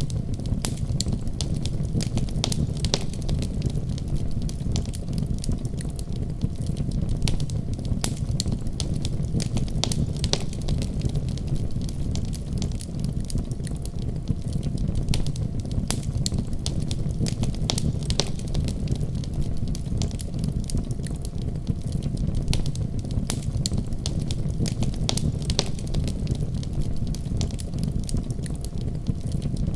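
Wood fire crackling in a fireplace: frequent, irregular sharp pops and crackles over a steady low rumble.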